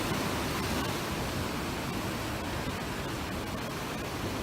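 Steady rushing of Atlantic surf washing against the shore rocks.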